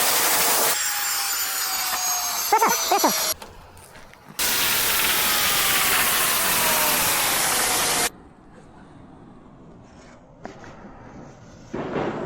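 High-pressure washer spraying, a loud steady hiss with a faint motor whine falling slowly in pitch, in long spells that stop abruptly; the last stops about eight seconds in, leaving a few faint clicks.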